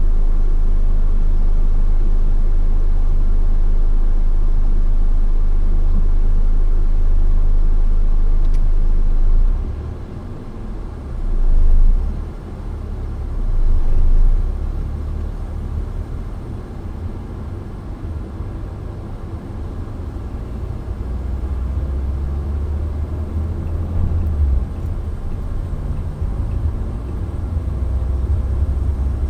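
Low road and engine rumble of a moving car, steady at first, then dropping about a third of the way in, swelling twice briefly and running on unevenly.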